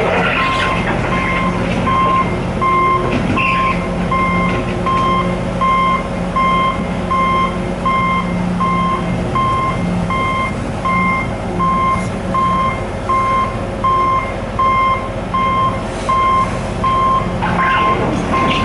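Backup alarm of a reversing construction vehicle, beeping evenly about three times every two seconds over the steady drone of the vehicle's engine.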